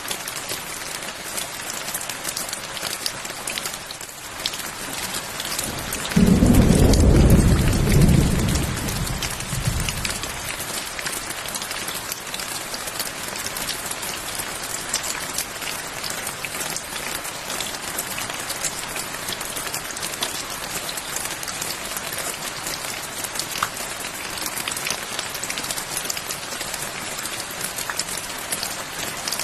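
Steady rain hissing, with one roll of thunder that breaks in suddenly about six seconds in, rumbles low and heavy for two seconds, then fades away over the next two.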